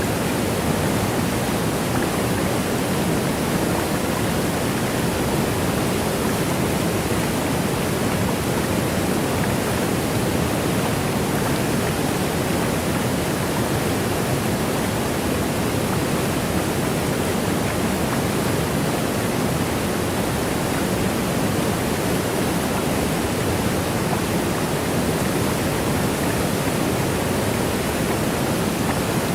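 Waterfall: water rushing and cascading steadily, an even, unbroken hiss-like roar with no changes.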